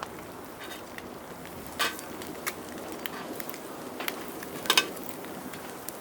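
Wood campfire crackling with food frying in a pan over it, and a few louder short sharp sounds about two seconds in and twice close together near five seconds.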